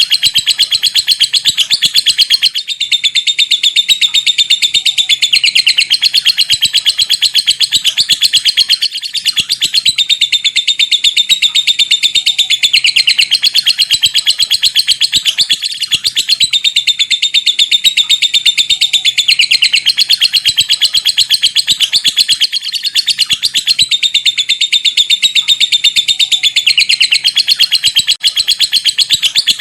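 Lovebird giving a long, unbroken 'ngekek' chatter: a very rapid, high-pitched string of chirps that runs on almost without a break.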